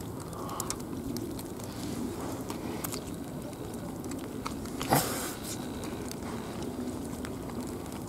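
A person chewing and biting into roast chicken with small wet clicks, over a steady background hiss. About five seconds in there is one short, loud rustle.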